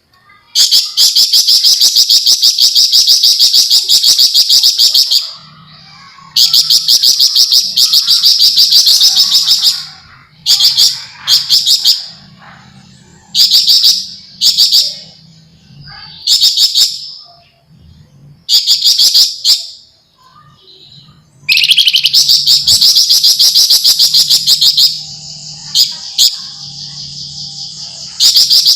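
Javan fulvetta (flamboyan) singing loud, rapid, rattling high-pitched trills. Several long runs of four to five seconds alternate with a string of short bursts under a second each.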